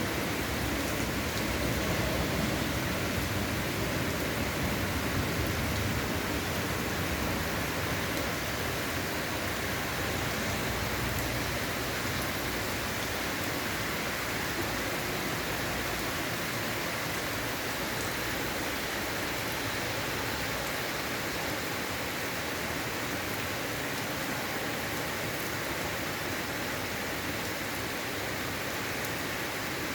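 Steady rain falling, an even hiss with no breaks, and a low rumble underneath that eases off over the first few seconds.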